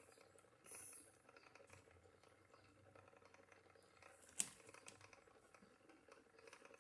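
Near silence: room tone, with one sharp click about four seconds in and a brief soft rustle near the start.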